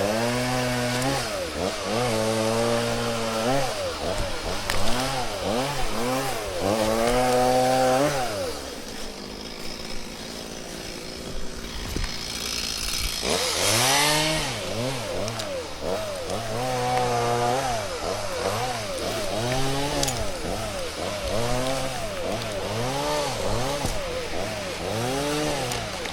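Two-stroke chainsaw revving up and dropping back over and over, held at high revs for stretches in between, working on a birch tree. It settles near idle for a few seconds about a third of the way in, then goes on with a quick series of short revs about one a second.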